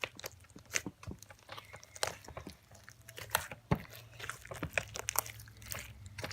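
Homemade slime being kneaded and squished by hand, giving irregular sticky clicks and pops.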